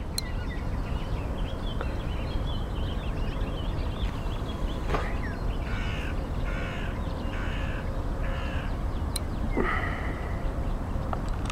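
A bird cawing: a run of four harsh calls about 0.8 s apart in the middle, and one more near the end, over a steady low rumble.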